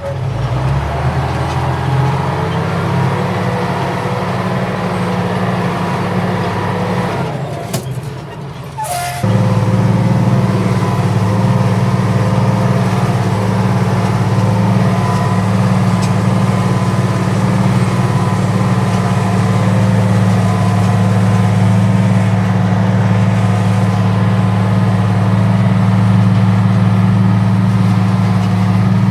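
Fiat 1300 DT Super's six-cylinder diesel engine working hard under load, pulling a ripper. It becomes abruptly louder about nine seconds in, then runs steady.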